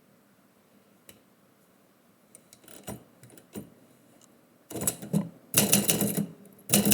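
Remington Letter Writer manual typewriter: a few scattered mechanism clicks, then rapid, loud keystrokes striking the platen from about two-thirds of the way through.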